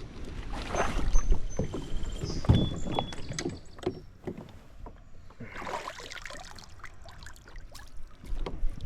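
Irregular knocks and bumps on a kayak hull, with a short rush of water sloshing a little past halfway, as the paddler moves around after his cell phone has gone into the water.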